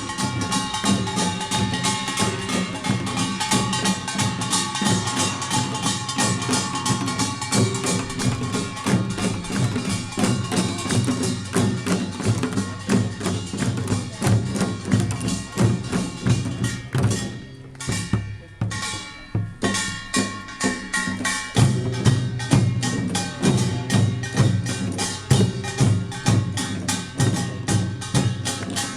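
Korean pungmul percussion ensemble playing Jeolla Jwado-style farmers' music: fast, dense clanging of kkwaenggwari small gongs over janggu and buk drums. The metallic strokes drop out briefly about two-thirds of the way through, then the full band comes back in.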